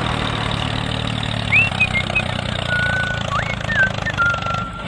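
Diesel tractor engine running with a steady low chug. Several short high whistles, some sweeping up and some held, sound over it from about a second and a half in.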